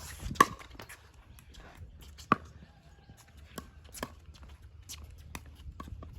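Pickleball paddles striking a hard plastic pickleball during a rally: sharp, hollow pocks at an uneven pace, the loudest just after the start and again a little over two seconds in, with fainter pocks later.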